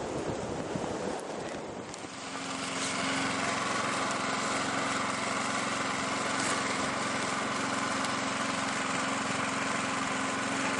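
Wind buffeting the microphone for about two seconds, then a small single-cylinder snow blower engine comes in and runs steadily at one pitch.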